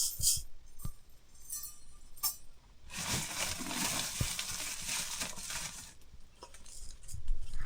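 Metal pots and utensils clinking and knocking, with a steady hiss lasting about three seconds in the middle.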